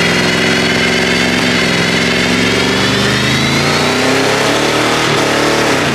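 A car engine revved hard and held at high revs during a burnout, with the tyres spinning and squealing against the pavement.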